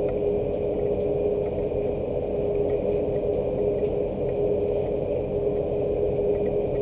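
Steady rain, a dense even rush, with a constant single-pitched hum running underneath.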